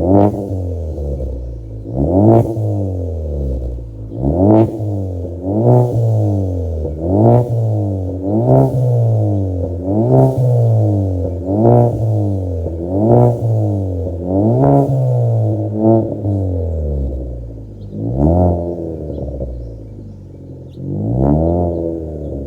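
2016 Ford Fusion's engine through a custom aftermarket exhaust, revved in quick blips, about a dozen times, each climbing and dropping back in pitch, with a brief settle back toward idle before the last rev.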